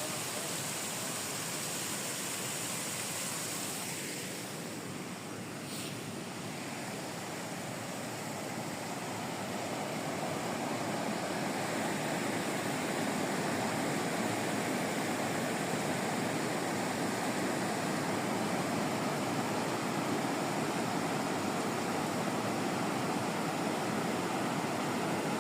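Steady rushing of a mountain river or stream. It dips slightly about five seconds in, then grows louder from about ten seconds on.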